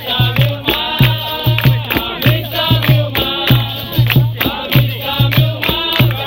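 Capoeira roda music: a group singing over a steady drum beat, with rattling hand percussion.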